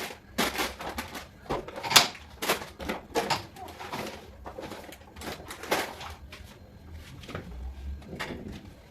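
A run of short, irregular knocks, clicks and rustles, the sound of items being handled and set down, with the sharpest knock about two seconds in.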